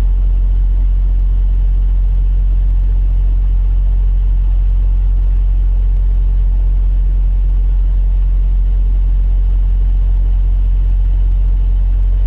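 Semi truck's diesel engine idling: a steady, even low drone that does not change.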